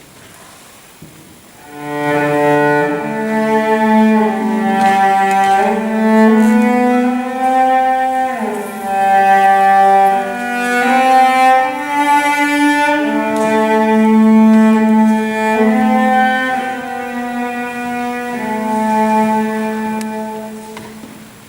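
Slow, sustained bowed-string music of cello and violin, several lines of long held notes moving gently. It starts about two seconds in and fades away near the end.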